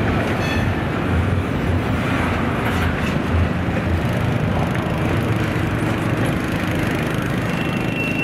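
A train rolling past, a steady noise of wheels on rail with irregular low thuds.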